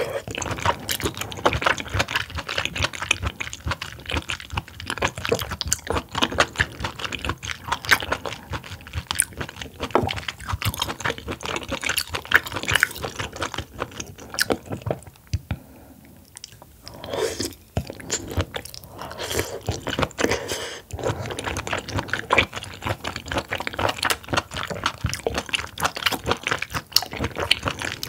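Close-miked wet chewing of oysters: a dense run of mouth smacks and squelchy clicks, with a brief lull about halfway.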